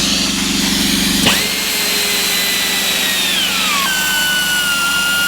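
Small belt grinder running, with a cylinder head's rough edges being dressed against the belt. A steady high whine sets in sharply about a second in and drops a little in pitch past halfway.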